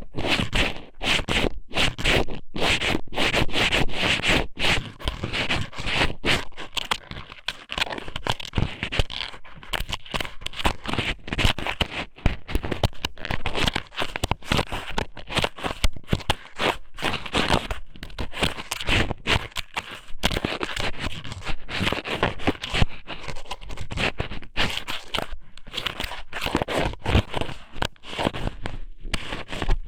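Strips of squid somen pushed into and rubbed around the ear of a binaural microphone, a continuous close-up scraping and crackling with many small clicks.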